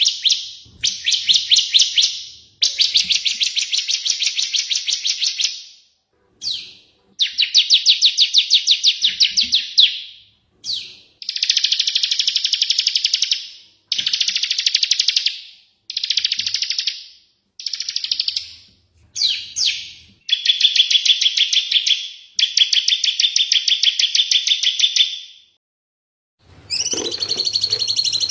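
Small songbirds giving rapid chattering trills in about a dozen bouts of one to three seconds each, with short gaps between. Near the end a different call comes in, with a steady whistled tone.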